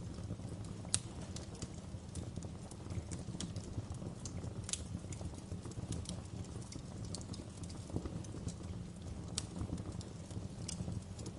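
Fire crackling: irregular sharp pops and snaps over a steady low rumble of the flames, with one louder pop about a second in.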